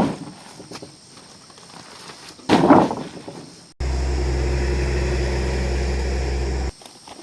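A short knock or thud, then a steady low machine hum that starts and stops suddenly after about three seconds.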